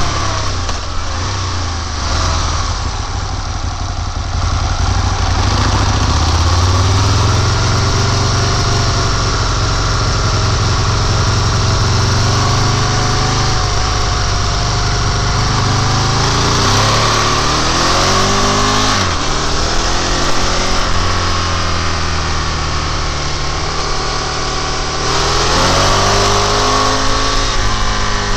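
Motorcycle engine under way, its pitch climbing and falling with throttle and gear changes, over heavy wind rush. The pitch rises near the end.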